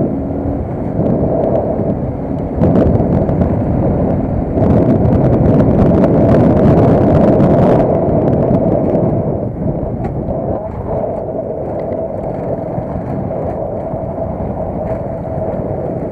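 Vehicle running under way, with a steady hum and rushing road and wind noise. The noise swells louder and fuller for about three seconds near the middle, then settles back.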